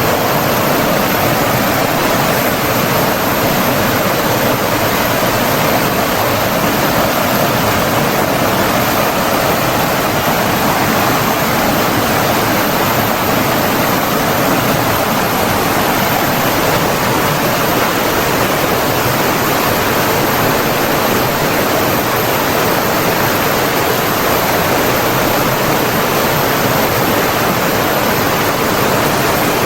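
Running water of a stream or waterfall, rushing steadily and evenly without a break.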